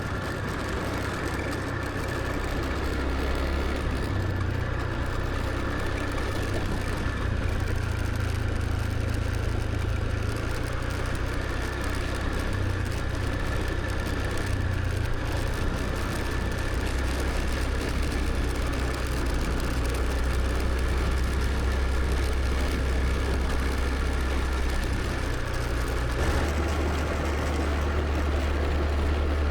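Scooter riding along the road: its small engine running steadily, with road noise and a strong, steady low rumble.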